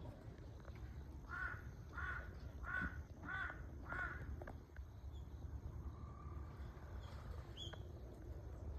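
A bird giving five harsh calls in quick, even succession, about two-thirds of a second apart, over a low outdoor rumble; a short high chirp comes near the end.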